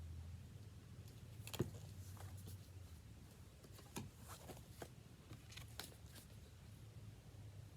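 Picture book being handled during a reading pause: a few faint rustles and light clicks over a low steady hum.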